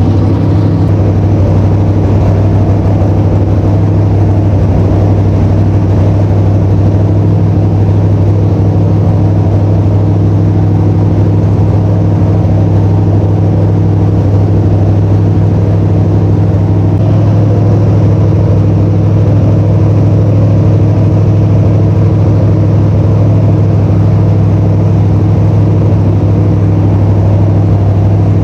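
Small-block Mopar 318 V8 running steadily at a held fast idle during break-in of the freshly installed engine. The engine speed rises slightly a little past halfway.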